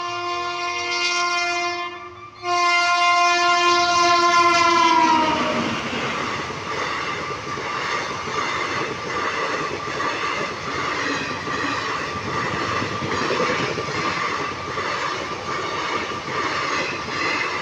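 Double-headed Indian Railways express train passing close by. The locomotive horn sounds twice, a blast of about two seconds and then a louder, longer one that drops in pitch as the locomotive goes by. After that the coaches pass in a steady rumble with a rhythmic clatter of wheels over the rail joints.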